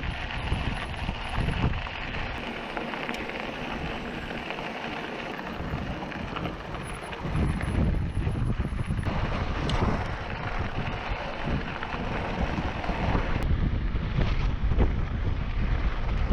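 Wind buffeting the microphone of a camera on a moving mountain bike, a steady rumble mixed with the noise of the bike rolling over the trail. The rumble eases for a few seconds about three seconds in, then comes back stronger.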